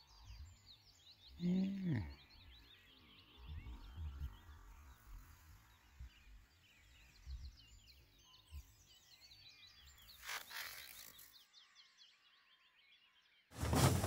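Faint, rapid high-pitched bird trills repeating in runs, with a few soft low thumps of handling. The sound drops to silence about two seconds before the end, then a loud rustling noise starts.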